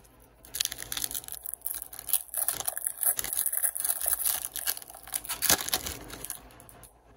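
Foil wrapper of a trading-card pack crinkling and tearing as it is opened, a dense crackle from about half a second in until shortly before the end.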